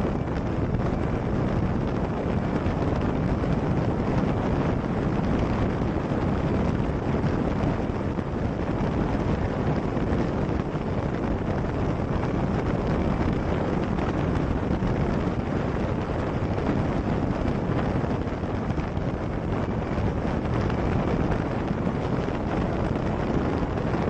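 Steady wind rush on the microphone of a camera riding on a police motorcycle at high speed.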